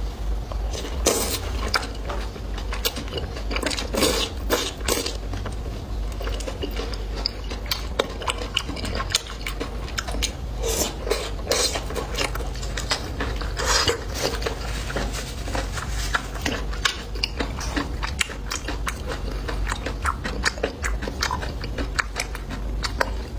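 Close-miked chewing and biting of food, with frequent short clicks and clinks of utensils against dishes, over a steady low hum.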